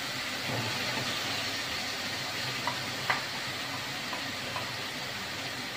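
Ground shallots and garlic sizzling in hot oil in a pot, a steady hiss. About three seconds in come a couple of sharp clicks as red onion wedges are pushed off a plate into the pot with a wooden spoon.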